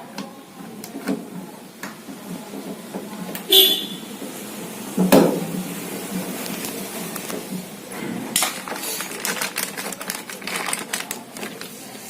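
Small metal clicks, taps and scrapes of a screw being driven in to fasten a washing machine's earth wire, with a dense run of quick clicks near the end. A brief high tone sounds about three and a half seconds in.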